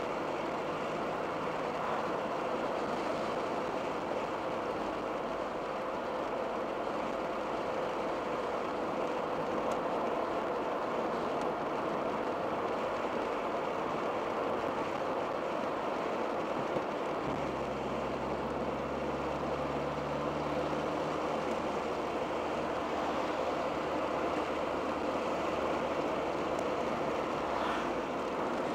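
Cabin sound of a 1987 Dodge Daytona Shelby Z at a steady cruise: its turbocharged 2.2-litre four-cylinder running under light throttle, together with tyre and road noise. A deeper, steady engine drone comes in about two-thirds of the way through and drops away near the end.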